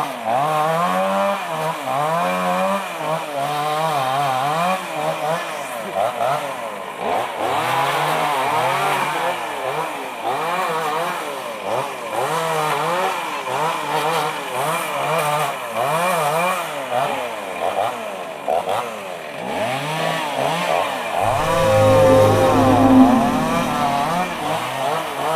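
Chainsaw cutting into the trunk of a fallen mango tree, its engine pitch rising and falling again and again as it revs and bites into the wood. Near the end a lower, steadier hum sounds alongside it.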